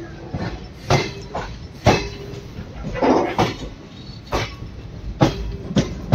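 Passenger train running, with a low rumble and the wheels clacking over rail joints in sharp knocks about once a second.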